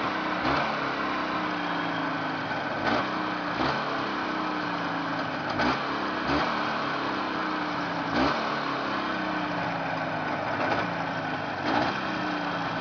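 Jawa 638 two-stroke twin motorcycle engine idling steadily on a check run, its speed wavering slightly, with a few short clicks scattered through.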